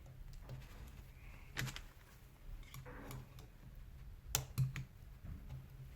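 A few light clicks and taps of small rotary-hammer parts being handled on the workbench: one about one and a half seconds in and two close together near the end, over a faint low hum.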